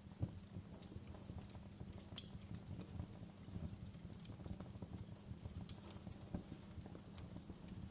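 Wood fire crackling in a fireplace: irregular pops and snaps over a low steady rumble, with one sharper pop about two seconds in.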